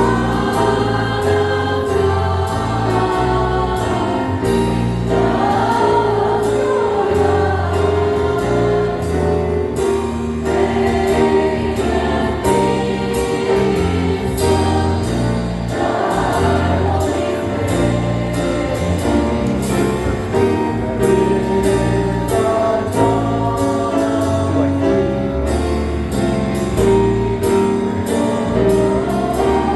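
A choir singing a jazz-style Christmas cantata song with band accompaniment: a moving bass line under the voices and steady cymbal strokes keeping a swing beat.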